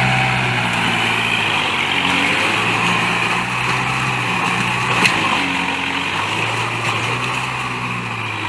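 Tractor engine running steadily, with one sharp click about five seconds in.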